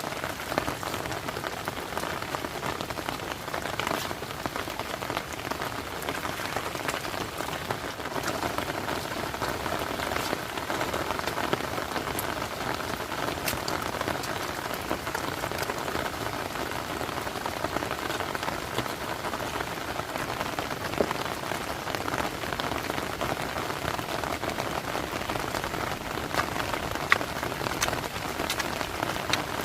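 Heavy rain falling steadily, a constant hiss scattered with the clicks of single drops.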